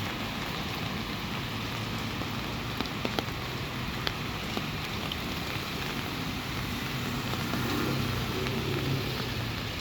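Sudden summer rain falling steadily, a continuous hiss of rain on surfaces with a few sharp drips landing close by. A low rumble swells briefly a little past halfway and fades before the end.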